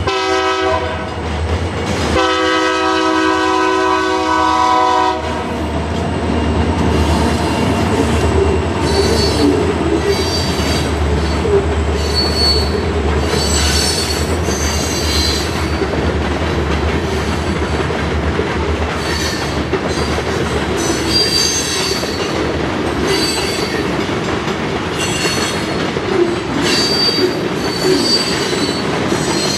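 Diesel freight locomotive's air horn sounding twice, a short blast at the start and a longer one of about three seconds. The train then rolls past with a low engine drone that fades in the second half, and the freight cars' wheels squealing on and off against the rails.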